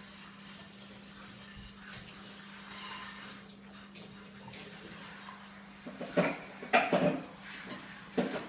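Crunching of a cracker being bitten and chewed: a few short, sharp crunches close together in the last couple of seconds, after a quiet stretch with a faint low hum.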